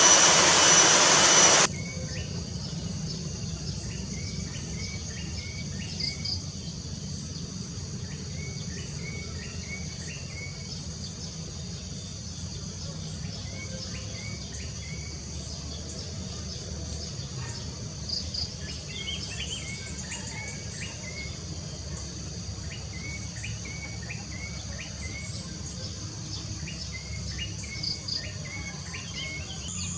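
A steady insect chorus of crickets, with a small bird repeating short phrases of three or four quick notes every few seconds. A loud rushing noise opens the sound and cuts off abruptly about a second and a half in.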